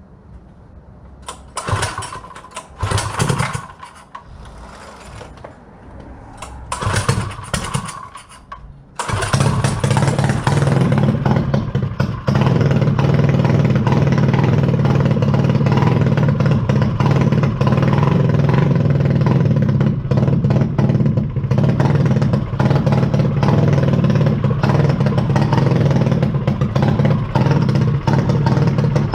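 Modified mini dirt bike engine being started: it catches briefly twice, about two and seven seconds in, and dies each time. About nine seconds in it fires and keeps running steadily, getting louder a few seconds later.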